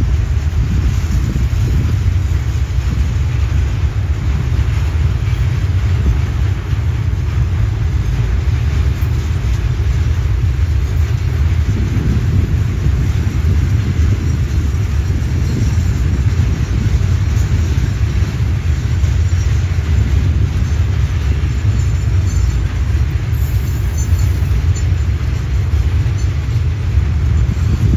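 Container wagons of a freight train rolling past on the rails, a steady low rumble of wheels and wagons.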